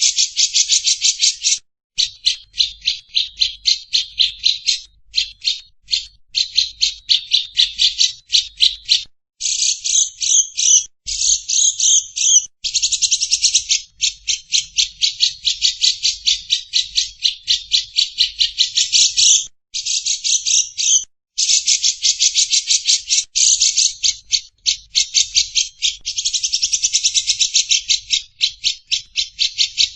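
Recorded songbird calls: a fast, dry, rattling trill of rapid high-pitched pulses, about ten a second, in bursts of one to three seconds with brief breaks between them.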